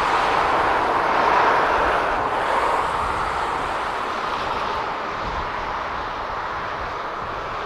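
Jet engines of a Boeing 757-200F freighter at takeoff power, a steady loud roar that peaks about a second and a half in and then slowly fades as the aircraft moves away.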